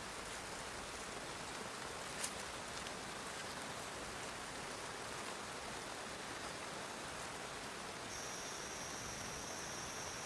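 Steady rain falling, with one sharper drop-like tap about two seconds in. A thin, steady high-pitched tone joins near the end.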